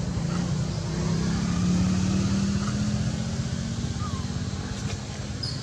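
Low engine rumble of a motor vehicle, swelling about two seconds in and then easing off.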